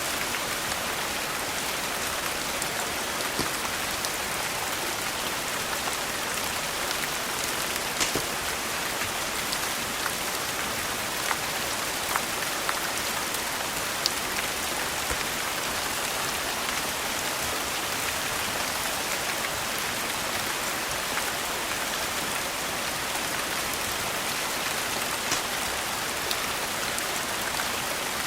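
Steady rain falling, an even hiss with a few sharp clicks scattered through.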